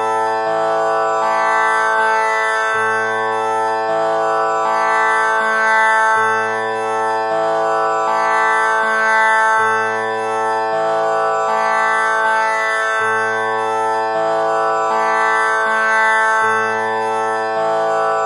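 Tanpura drone tuned to A (6 kattai): its strings are plucked in a slow repeating cycle, each note ringing into the next to give a continuous buzzing drone rich in overtones.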